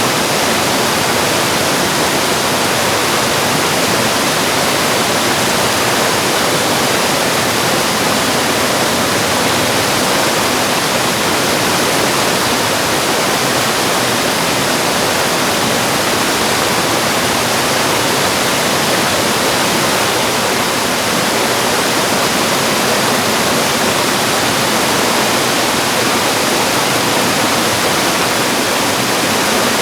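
Mountain valley stream rushing, a loud, steady wash of water noise with no pauses or changes.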